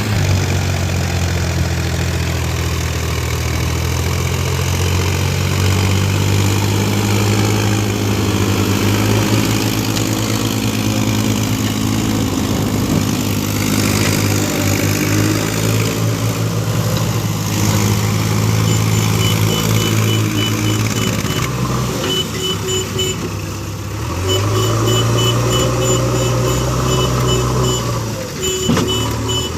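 Heavy diesel machinery engine running, its pitch shifting up and down as it works. From about two-thirds of the way in, a reversing alarm adds a run of rapid, evenly spaced high beeps.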